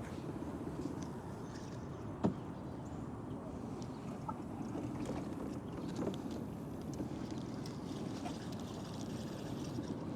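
Kayak on the water: steady water noise around the hull, with a few small clicks and one sharper knock about two seconds in.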